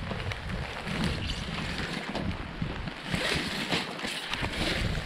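Muffled, rumbling wind-and-rain noise on a waterlogged GoPro microphone. A brighter hiss comes in for the second half, with a few scattered clicks.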